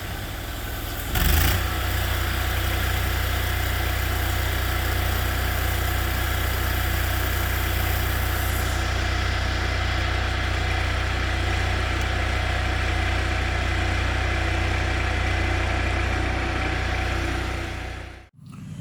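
An engine idling steadily with an even low pulse, briefly louder about a second in, then cutting off suddenly near the end.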